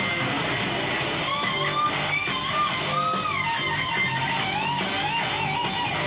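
Live heavy metal band playing, with an electric guitar lead line that bends and wavers in pitch over bass and drums.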